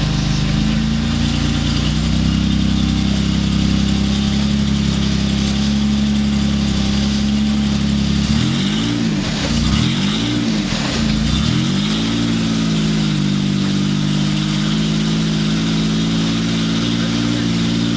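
Off-road rock crawler's engine running at low revs. About eight seconds in, the throttle is blipped up and down three times, then the engine settles back to a steady low run.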